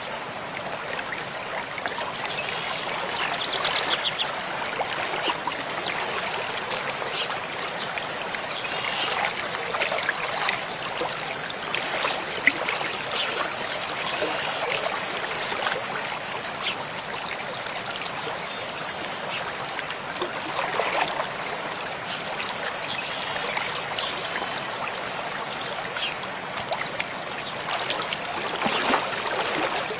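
Mountain stream flowing steadily over rocks: a continuous rush of water with many small splashes and trickles running through it.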